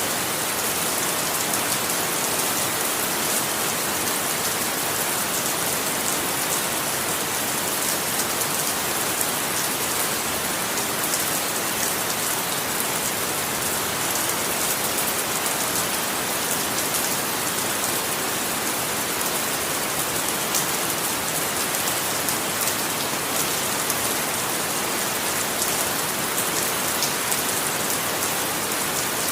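Steady rain falling and pattering on a surface: an even hiss with fine individual drop sounds, no thunder.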